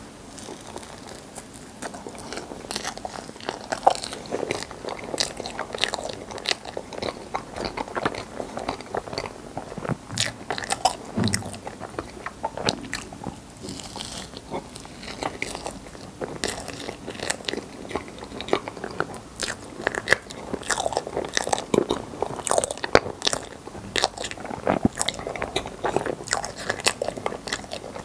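Close-miked chewing and mouth sounds of a person eating layered rainbow crepe cake with cream, with many small clicks throughout.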